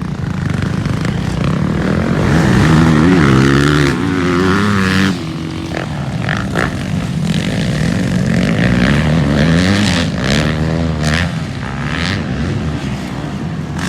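Motocross dirt bike engines revving up and down as the bikes race, the pitch climbing and falling with the throttle. The loudest stretch comes about two to five seconds in and drops off suddenly.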